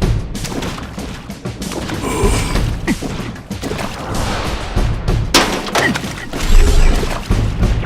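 Cartoon slapstick sound effects: a quick run of thuds, crashes and smashes over background music, with the heaviest thumps about two-thirds of the way in.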